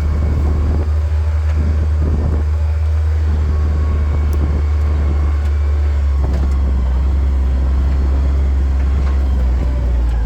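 Vehicle driving slowly along a rough dirt road: a steady low engine drone with irregular bumps and rattles from the uneven ground.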